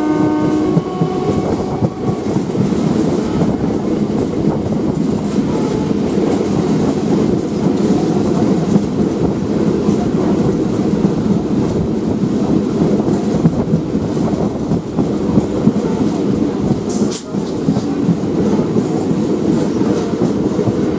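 Train running along the track: a steady loud rumble with the clickety-clack of wheels over rail joints. A horn blast dies away in the first second, and a single sharp metallic clank comes about 17 seconds in.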